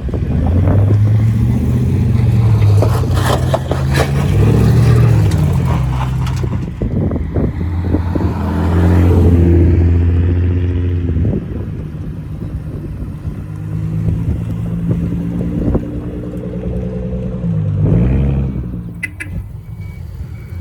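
Customised VIP-style cars with aftermarket exhausts driving past one after another, deep low exhaust notes swelling and fading, with short blips of revving and a sharper rev near the end.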